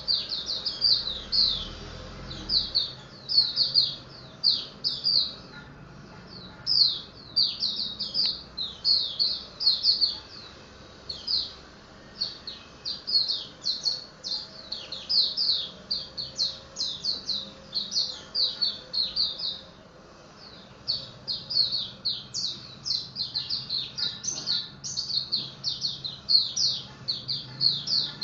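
A pleci (white-eye) singing: a fast, unbroken run of high, thin chirps, short falling notes several a second, with only brief pauses.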